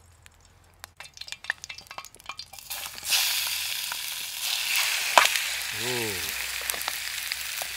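A plastic food packet crinkling and clicking, then chicken pieces tipped into a hot pan set up a loud sizzle about three seconds in that carries on steadily as the pieces fry.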